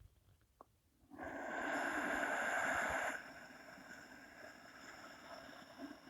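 A person's deep breath, heard as a rush of air through the nose lasting about two seconds, starting about a second in. It is part of a slow, lengthened qigong breathing cycle.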